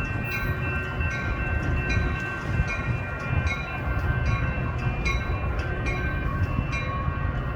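A train's cars rolling past with a steady low rumble and rhythmic clicking of wheels over rail joints, about two clicks a second, under a steady high metallic ringing from the wheels on the rails.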